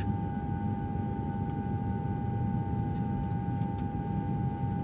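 Steady airplane cabin drone: a constant low rumble with a steady whine held on one pitch over it.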